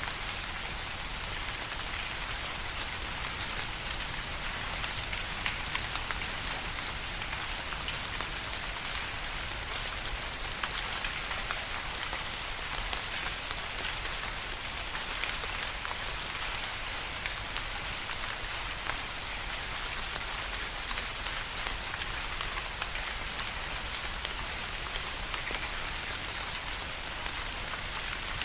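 Steady rain falling, a continuous hiss with many individual drops pattering and ticking on a surface.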